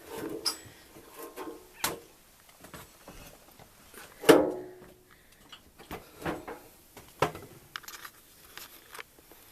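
Scattered knocks and clatters of hard objects being moved or stepped on, the loudest about four seconds in with a short ring after it.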